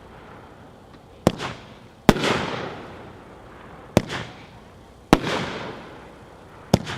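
A Magnus 'Stoned to the Bone' consumer fireworks cake firing its shots: five sharp bangs about one to two seconds apart, some doubled, each trailing off over about a second.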